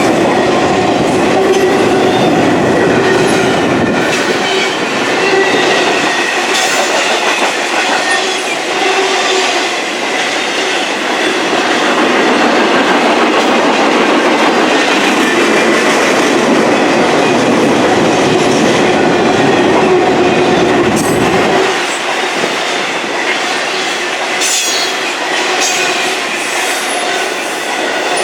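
Intermodal container freight cars rolling past at speed: steel wheels running on the rails with a continuous rolling clatter and a few steady whining tones above it. The deep rumble thins out about four seconds in, returns, and drops away again near the end.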